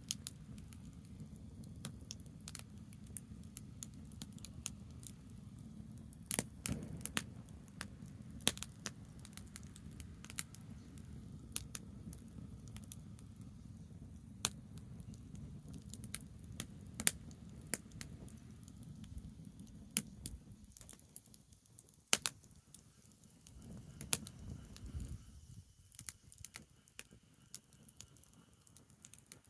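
Campfire of burning branches crackling, with sharp pops coming irregularly, several a second at times, over a low steady rumble that fades for a few seconds about two-thirds of the way through.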